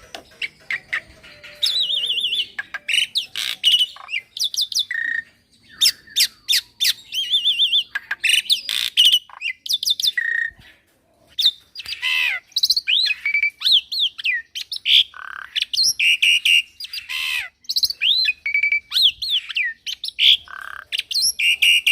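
A young black-winged myna (jalak putih) singing a long, varied song of harsh squawks, fast rattling trills, clicks and whistled notes, full of mimicked calls. There is a short pause about halfway through.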